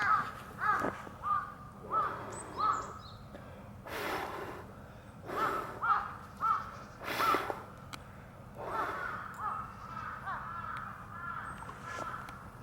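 Crows cawing: a series of short calls about two a second, again a few seconds later, then softer calls near the end, with a few short noisy rushes in between.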